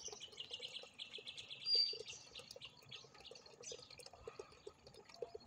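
Small birds chirping. A fast trill of repeated high notes runs for about the first two seconds. A short sharp whistle comes near the two-second mark, and scattered chirps follow.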